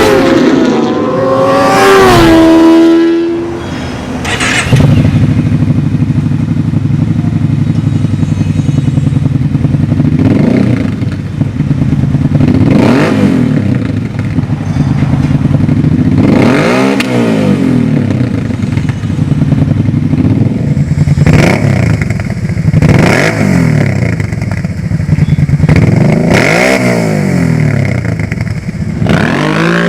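Kawasaki Brute Force 750 ATV's V-twin engine through a Two Brothers Racing 3/4 race exhaust, revved high at first and then settling to a steady idle. From there it is blipped in short rev-ups that rise and fall back every couple of seconds.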